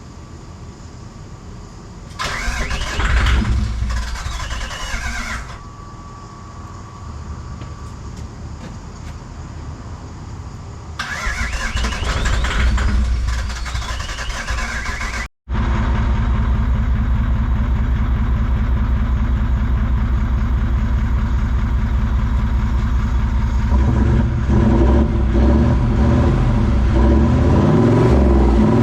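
Toyota 1VD-FTV twin-turbo V8 diesel being cranked twice on the starter, then, after a sudden cut, running steadily at idle on its first start, with the revs rising and falling near the end.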